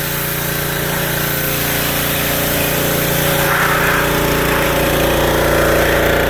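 A motor-driven machine running steadily with a continuous hiss, gradually getting a little louder.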